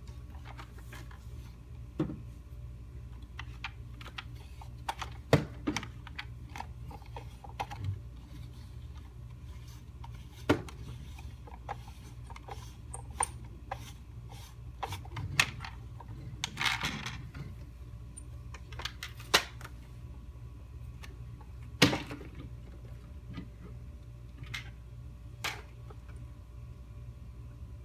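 Plastic toy vacuum cleaner being handled: scattered clicks and knocks, with a short rustle about two-thirds of the way in, over a steady low hum.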